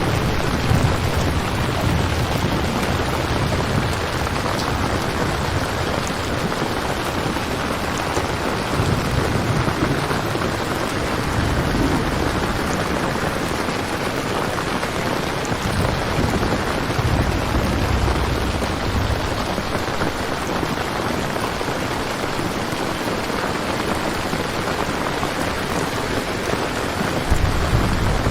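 Steady rain ambience, with low rolling rumbles of thunder that swell and fade every few seconds.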